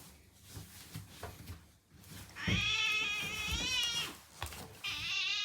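House cat meowing: two long, drawn-out meows, the first lasting nearly two seconds and the second following about a second later.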